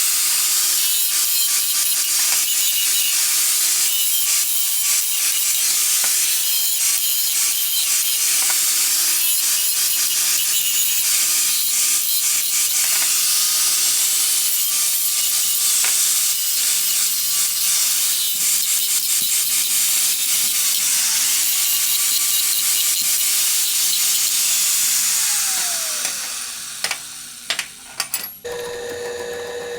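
An electric power tool, such as a grinder or sander, working a metal hinge iron with a steady, hissing abrasive noise. About 26 seconds in its motor shuts off and winds down in a falling whine, followed by a few sharp clicks and a low steady hum.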